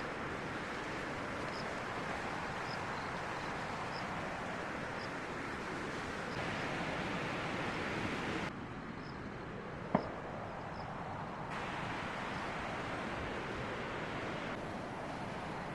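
Strong wind blowing steadily, with one sharp click about ten seconds in.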